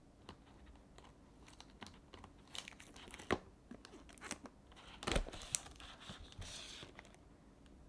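Crinkling and rustling with scattered sharp clicks and knocks, the loudest a little past a third of the way in and again about two-thirds in, as of something being handled close by.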